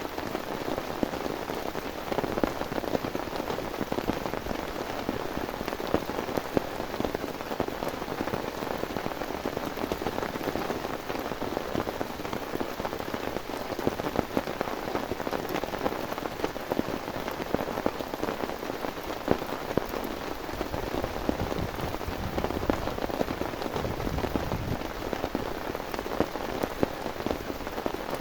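Heavy rain falling steadily, with a dense, even hiss and many close individual drop hits on a nearby surface.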